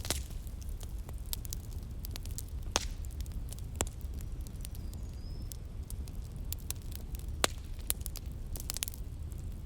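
Wood fire burning in a fireplace, crackling and popping in irregular sharp snaps over a steady low rumble.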